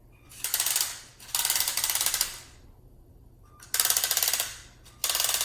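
Plastic gears of a LEGO Technic race car, its differential among them, clattering in rapid clicks as the car is rolled back and forth, in four bursts of about a second each.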